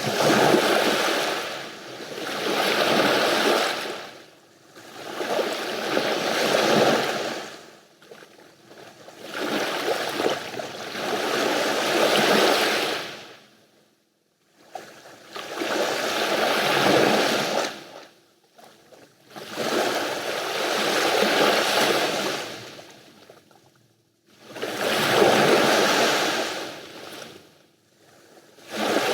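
Sea waves breaking and washing up the shore. The surf swells and fades every few seconds, with short quiet gaps between surges.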